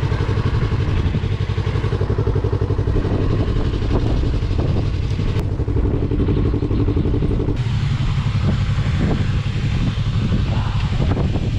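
Motorcycle engine idling with a rapid, even exhaust pulse; about seven and a half seconds in the sound changes and thins to a lower steady rumble.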